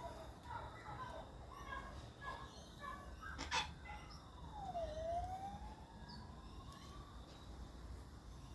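Short bird chirps and calls, a sharp click about three and a half seconds in, then one long tone that slides down and back up over about two and a half seconds.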